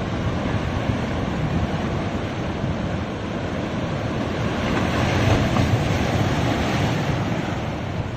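Ocean waves breaking and washing on a beach in a steady surge, with wind buffeting the microphone.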